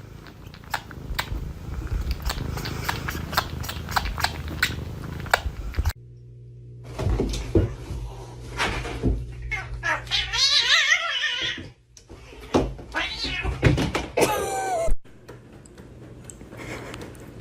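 A cat suckling on a person's ear, making a run of rapid wet clicking sucks. After a cut, a cat meows in a long wavering yowl about ten seconds in, then gives a shorter cry near the end.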